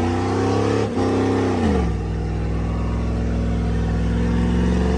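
Truck engine held at high revs, with a brief break a little under a second in. The revs drop sharply about a second and a half in, and the engine then runs lower and steady, starting to rise again near the end.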